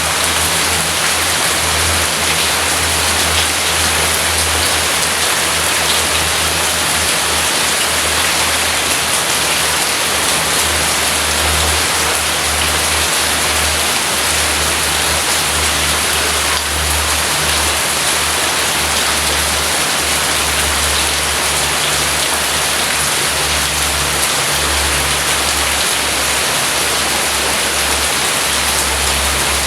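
Rain falling steadily, an even hiss with no pauses.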